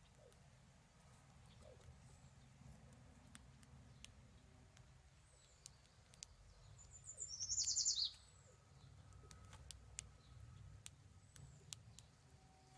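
A bird's short, rapid, high-pitched trill about seven seconds in, falling at the end, over scattered faint clicks and a few faint high chirps.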